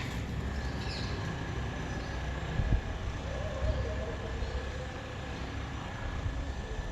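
Steady low outdoor rumble with a single thump a little under three seconds in.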